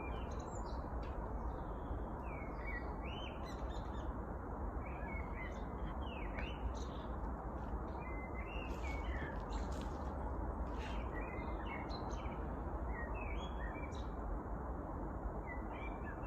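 Songbirds chirping and twittering in a spring chorus, short calls following one another irregularly, over a steady rushing background noise.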